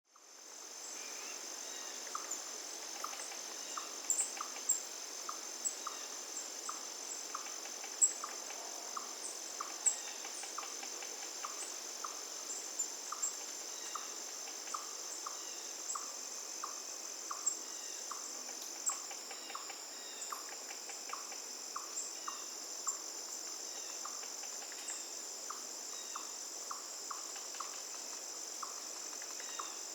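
Forest insect chorus: a steady high-pitched drone of crickets or similar insects. Over it a short lower chirp repeats about twice a second, with scattered brief high chirps. Fades in over the first second.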